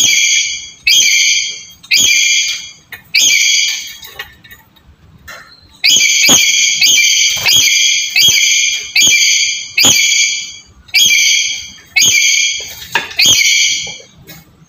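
Black-capped lory giving a string of loud, shrill calls, each on one steady pitch and under a second long, about one a second, with a pause of about two seconds near the middle. A lure call used to set a quiet lory calling.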